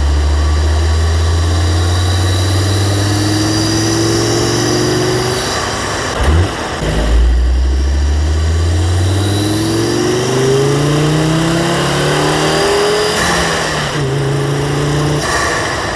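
Volvo S60 2.0T's turbocharged inline five-cylinder pulling under acceleration, with induction hiss over it. The engine note rises steadily for about five seconds, breaks with a short burst at a gear change around six seconds in, then rises again through a second long pull.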